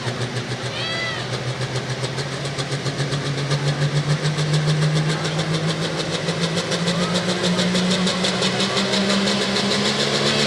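Diesel pulling truck's engine running with a fast even pulse, its note climbing slowly and growing louder.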